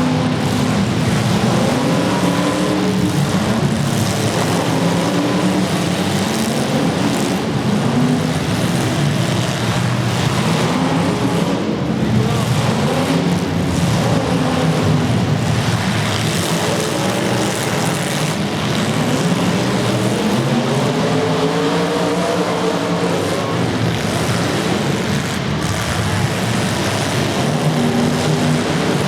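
Several demolition derby cars' engines running and revving up and down together, loud and continuous, their pitches rising and falling over one another.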